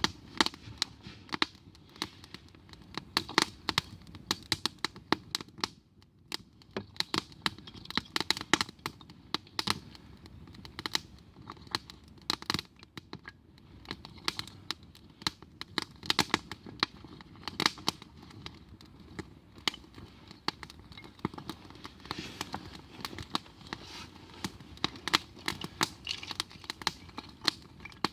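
Wood campfire crackling, with irregular sharp pops over a low hiss.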